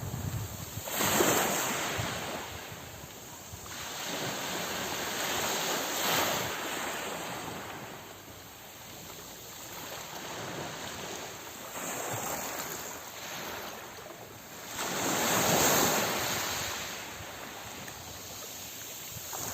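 Small sea waves washing onto the shore, swelling and receding every few seconds. The loudest surges come about a second in and again after about fifteen seconds.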